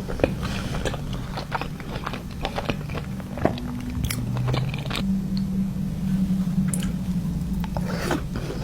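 Close-miked eating sounds of sushi: irregular bites and chewing, with crisp crunches and small wet mouth clicks.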